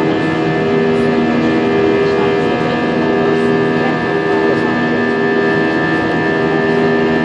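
Airbus A320 cabin noise in flight: the jet engines' steady hum, with several constant tones, over the rush of air past the fuselage.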